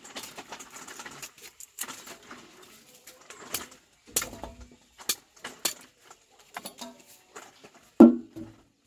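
Irregular rustling with many sharp clicks and snaps, as of things being handled, and a louder short sound about eight seconds in.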